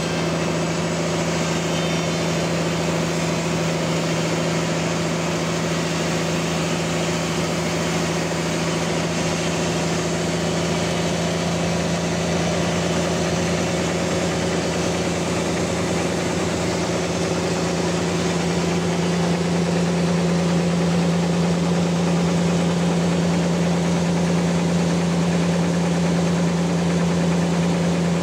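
Engine-driven band sawmill running steadily with a strong low hum and a hiss over it, growing slightly louder about two-thirds of the way through.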